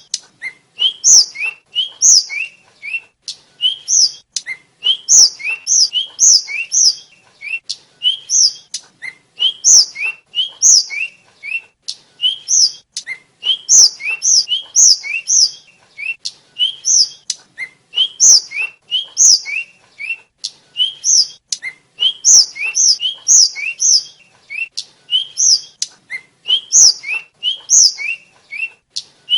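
Tledekan (sikatan), a small flycatcher, singing a continuous run of short, sharp chirps, high notes alternating with lower ones, several a second.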